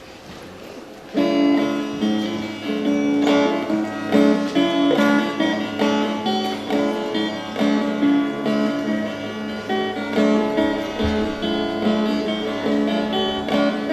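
Acoustic guitar playing the instrumental introduction to a song, plucked and strummed chords starting about a second in.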